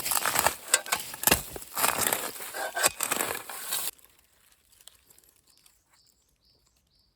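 Crunching and rustling in dry leaf litter underfoot or under a digging tool, which cuts off abruptly about four seconds in. Then it goes quiet, with a few faint, short, high bird chirps near the end.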